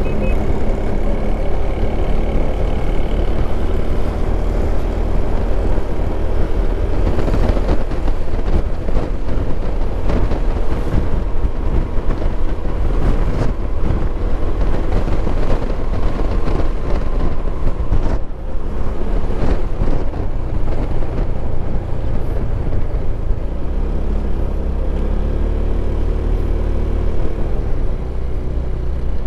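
Motorcycle engine running on the move, under steady wind and road noise. The engine's note is clearest in the first couple of seconds and again near the end.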